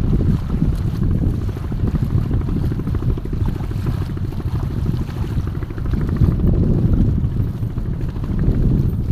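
Strong wind buffeting the microphone: a loud, steady, rumbling roar with no break.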